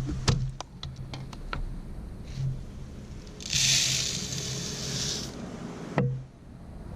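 Wild bird seed being poured into a hanging bird feeder: a dry rushing hiss lasting about two seconds in the middle, after a string of small clicks and rattles from handling the feeder, with one sharp knock near the end.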